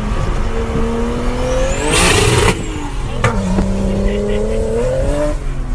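2007 BMW 335i's twin-turbo inline-six accelerating hard. The engine note climbs, and about two seconds in there is a half-second rush of noise as it changes up a gear. The pitch then drops and climbs again through the next gear.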